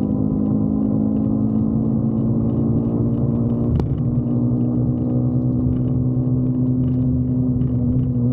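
Motorcycle engine running steadily at cruising speed, its note holding even. A single sharp click comes a little under four seconds in, and the note sits slightly lower after it.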